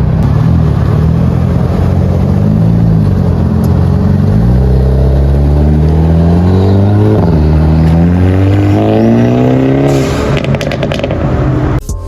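A car accelerating at full throttle, the engine revving up, dropping briefly at a gear change about seven seconds in, then climbing again before fading away.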